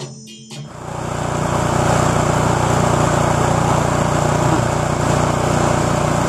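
Snow blower engine running steadily with a rushing blowing noise, starting abruptly under a second in and cutting off a short bit of percussive music.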